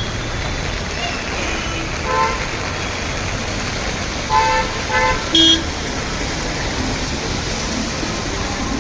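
Vehicle horns tooting in short blasts: one faint honk about two seconds in, then three more close together around the middle, the last a different, higher horn. Underneath runs a steady rushing hiss of rain and road traffic.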